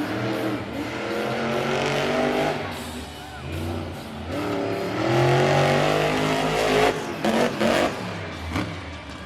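Mayhem monster truck's supercharged engine revving hard in two long rising pulls, then a few short sharp blips of the throttle near the end.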